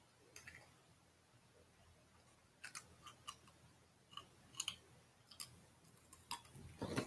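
Faint, irregular crunches of crispy veggie chips being bitten and chewed, about ten sharp clicks scattered through, the loudest near the end.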